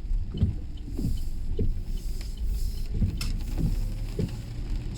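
Car cabin noise: a steady low rumble from the car, with two runs of three short low squeaks or knocks, about half a second apart.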